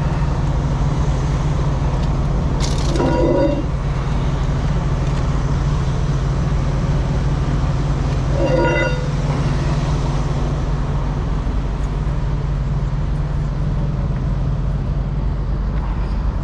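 Steady low drone of an idling truck engine, with two short pitched sounds, one about three seconds in and one about eight and a half seconds in.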